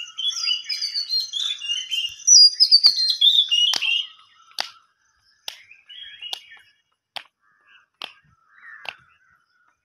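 Birds singing: a run of high chirps that fall in pitch through the first four seconds, then short sharp notes about a second apart.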